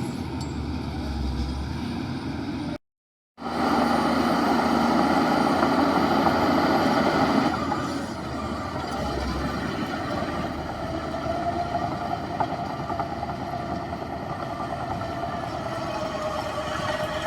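Heavy diesel earthmoving machinery running steadily. About three seconds in the sound drops out for a moment (a cut), then comes back louder for a few seconds, as if working under load, before settling back to a steady run.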